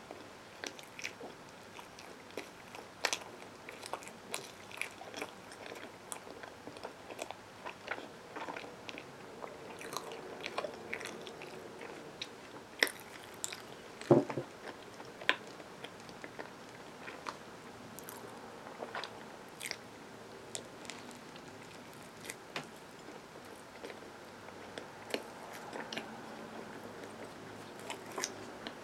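A person chewing a peanut butter and marshmallow sandwich: mouth sounds with scattered clicks and smacks, the sharpest about halfway through.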